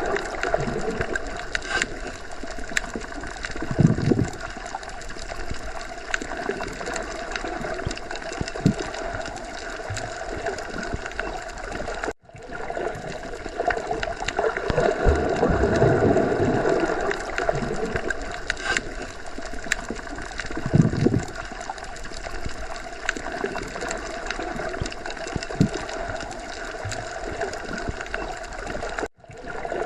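Underwater sea ambience: a steady watery hiss with slow low swells and scattered small clicks. It cuts out for an instant twice, about twelve seconds in and again near the end.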